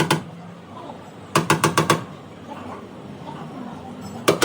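Rapid bursts of sharp taps, about nine a second, typical of a tap-down hammer working a high spot in the spoiler's panel during paintless dent repair. One burst of about six taps comes around a second and a half in, and another starts near the end.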